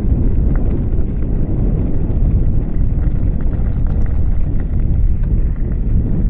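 Strong wind buffeting the microphone: a loud, steady low rumble with a few faint ticks over it.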